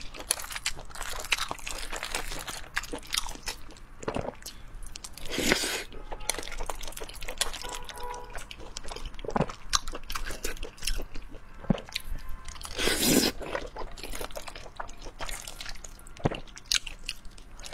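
Close-miked eating: a person chewing and biting sauced food, with many small wet mouth clicks and smacks, and two longer, louder sounds about five and thirteen seconds in.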